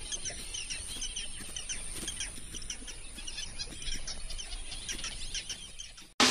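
Birds chirping in a busy chorus of short, quick calls over a thin, steady, high-pitched whine. It cuts off suddenly near the end.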